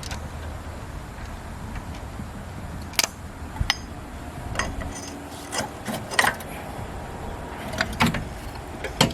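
Hand tools and metal brake parts being handled: scattered clinks, knocks and scrapes a second or so apart, over a low steady background rumble.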